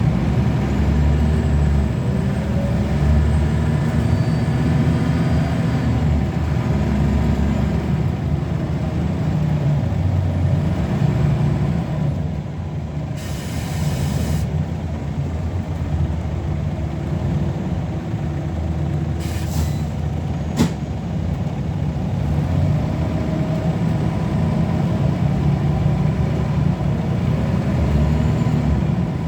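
Scania L94UB bus engine running steadily under way, with a hiss of released brake air lasting about a second and a half near the middle and two short air puffs a little later.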